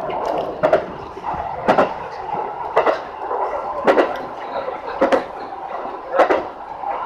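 Steady running noise of an electric local train heard from inside the car, with the wheels clicking over rail joints about once a second.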